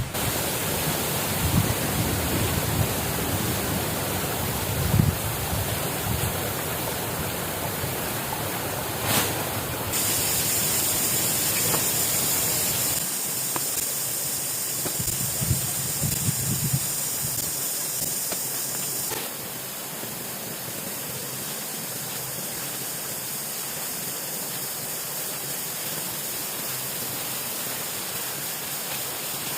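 Steady hiss of water, with its level and tone shifting abruptly about 10, 13 and 19 seconds in.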